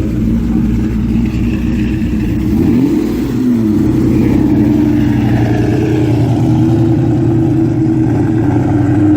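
V8 car engine running under way, with a brief rise and fall in engine pitch about three seconds in, then holding a steady, somewhat higher pitch.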